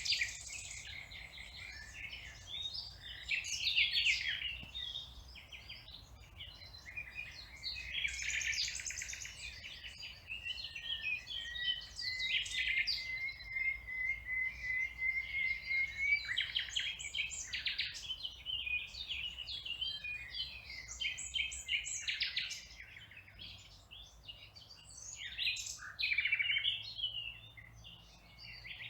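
Several songbirds singing at once, with overlapping chirps and phrases throughout. From about twelve seconds in, one bird gives a long, even trill lasting about four seconds.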